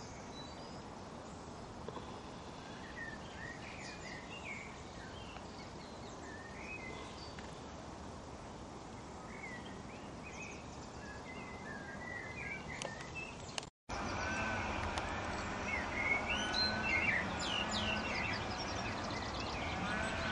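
Birds chirping and singing over a steady outdoor background hiss. About two-thirds of the way through the sound cuts out for a moment, and after it the background is louder and the birdsong busier.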